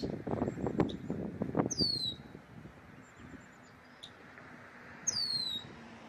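A songbird gives two short, high, downslurred whistled calls about three and a half seconds apart, with a few brief high chips in between. A burst of low, rough noise fills the first two seconds.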